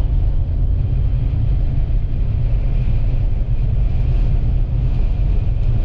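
Steady low rumble of a vehicle driving on the highway: engine, tyre and wind noise together, with no break.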